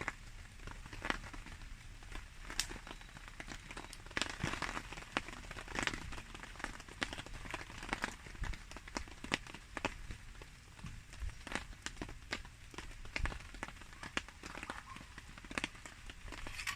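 Wood campfire crackling with irregular sharp pops, over the steady patter of rain.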